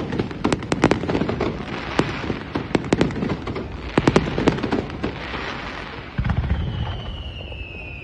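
Fireworks display: a rapid run of sharp bangs and crackles through the first five seconds, a deep boom about six seconds in, then a high whistle gliding slowly downward near the end.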